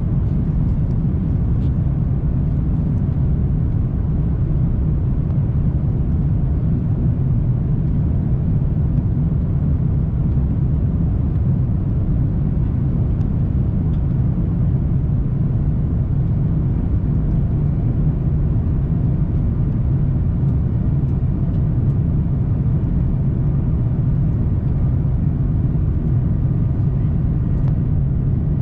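Cabin noise of an Airbus A340-300 under takeoff power: the steady, unbroken sound of its four CFM56 engines and airflow, deep and rumbling, heard from inside the cabin.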